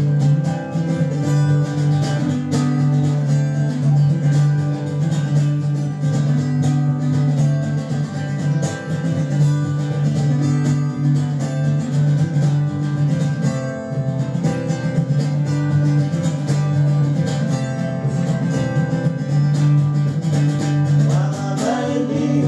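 Live acoustic folk music: guitars playing a traditional Appalachian song.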